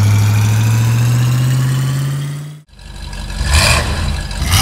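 Cartoon race-car engine sound effect running and slowly climbing in pitch as the car pulls away, fading out with a brief cut about two and a half seconds in. Then engines idle at the start line, with short noisy blips about once a second.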